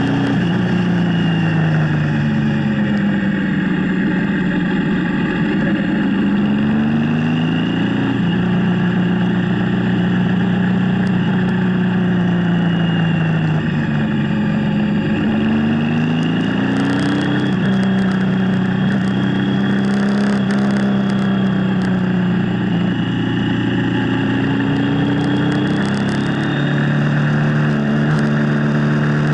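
Motorcycle engine running under way, its pitch rising and falling several times as the revs change, over a steady rush of noise.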